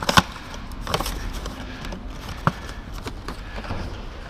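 A few sharp knocks and clanks from tools and parts being handled during a filter change. The loudest come just after the start, with another about a second in and a sharp one a little past halfway.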